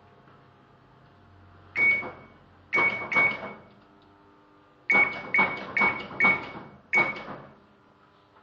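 Eight sharp metallic strikes in irregular groups (one, then two, then four in quick succession, then one), each ringing briefly at the same high pitch, over a faint steady hum.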